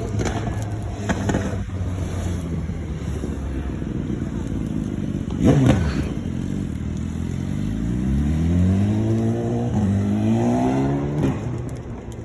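Car traffic going by: one vehicle passes close about five and a half seconds in, its pitch dropping as it goes. Near the end an engine accelerates, its pitch rising twice as it shifts up a gear.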